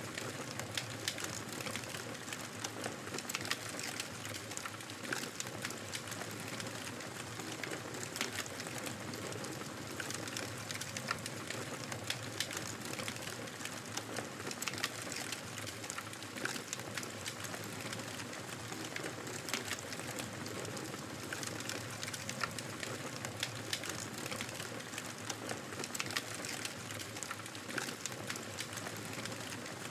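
Wood fire crackling steadily, with frequent small sharp pops and snaps over a soft continuous hiss.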